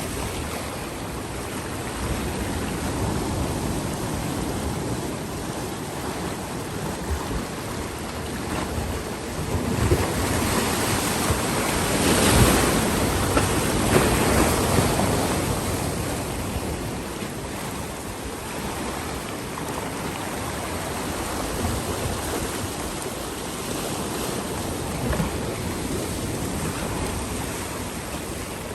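Sea waves washing against a rocky shore, with a steady rush that swells into a louder surge about halfway through and then eases off.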